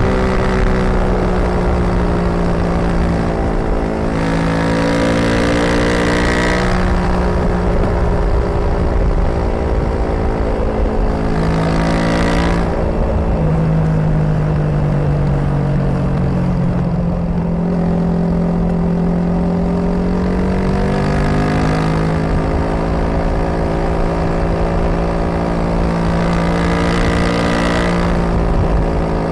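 Suzuki DR250S single-cylinder four-stroke engine on the move through a Dominator R aftermarket exhaust, its revs rising and falling several times as the bike is ridden along the road.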